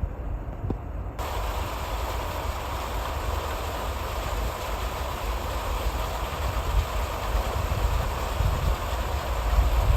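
Wind rumbling on the microphone, joined about a second in by a steady hiss of falling precipitation that starts abruptly and holds.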